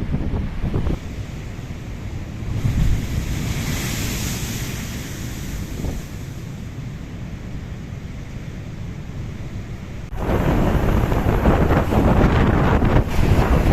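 Storm waves surging and breaking on the shore, with strong wind buffeting the microphone. A rushing swell rises and fades a few seconds in, and the noise turns abruptly louder about ten seconds in.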